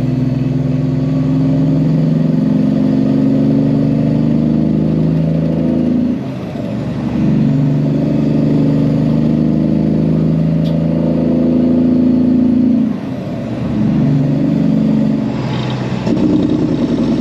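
Peterbilt semi truck's diesel engine running steadily under load while driving. The engine note dips briefly twice, about six and thirteen seconds in.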